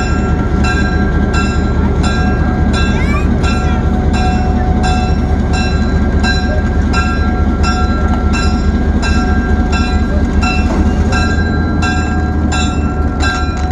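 Locomotive engine running steadily under a heavy low rumble, with the locomotive bell ringing at an even rhythm over it.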